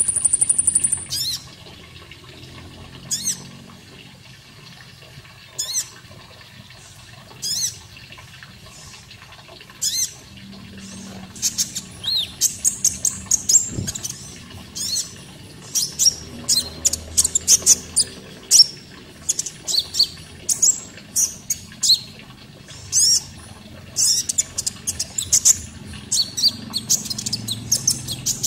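Konin songbird singing in short, sharp, high chirps, scattered at first and then in quick runs from about halfway, over steady running water.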